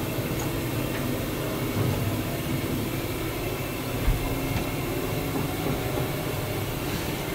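Running noise inside a locomotive-hauled passenger coach in motion: a steady rumble of wheels on rail, with a few faint clicks and a short low knock about four seconds in.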